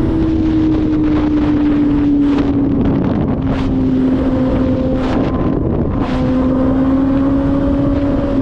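Motorcycle engine, likely a Kawasaki ZX-6R inline-four, running at steady high revs while riding, its pitch sagging slightly and then climbing a little. Wind rushes and gusts on the microphone throughout.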